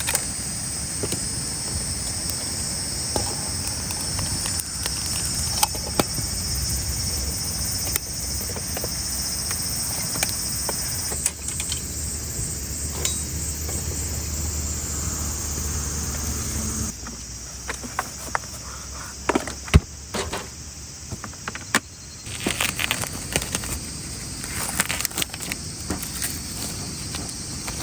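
Insects droning in a steady high-pitched chorus, which cuts off abruptly about two-thirds of the way through; toward the end a run of light clicks, clinks and taps.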